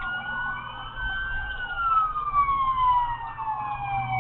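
Police car siren on wail: one slow sweep that holds high, falls over about three seconds, then starts rising again at the end, over a steady low rumble of engine and road noise.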